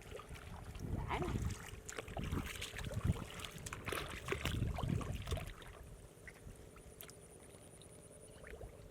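Water sloshing and splashing in irregular surges, with a few light knocks; it dies down after about five and a half seconds.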